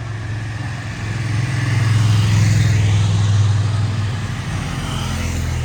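A motor vehicle passing close by. Its low engine sound builds to a peak two to three seconds in, then fades.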